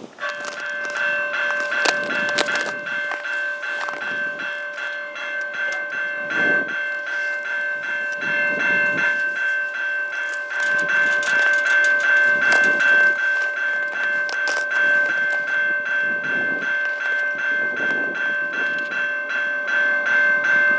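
Railway level-crossing warning bell starting suddenly and ringing in a fast, steady repeating clang: the crossing signals activated by an approaching train.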